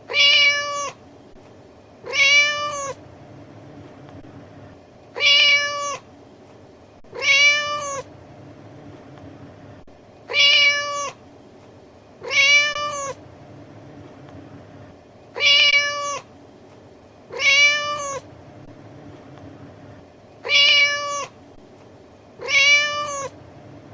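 Cat meowing: ten identical high meows, each under a second long, in pairs about two seconds apart with a pause of about three seconds between pairs, as though one meow is repeated over and over.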